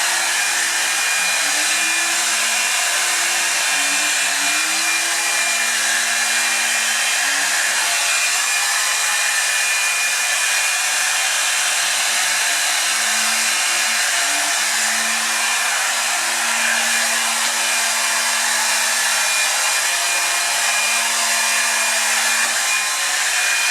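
Revlon One-Step Hair Dryer & Volumizer hot-air brush running steadily on its low setting as it is worked through hair, a loud even rush of air over a low motor hum that wavers slightly in pitch.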